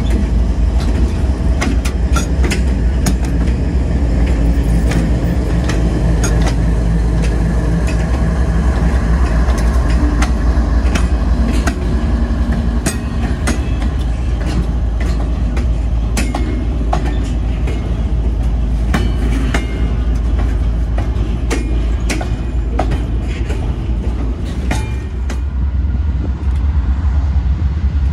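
Freight train passing close by: diesel locomotives rumbling past, then loaded intermodal well cars rolling by with repeated sharp clicks and clacks from the wheels on the rails.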